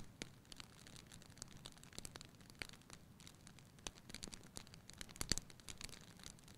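Wood fire in a fireplace crackling softly: scattered sharp snaps, with a louder couple of pops about five seconds in, over a low steady rumble.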